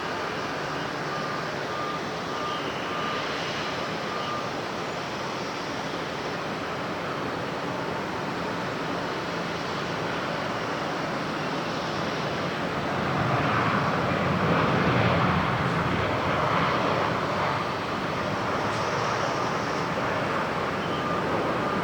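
Jet airliner engine noise, a steady rush and rumble that swells to its loudest about two-thirds of the way through as the aircraft passes, then eases off.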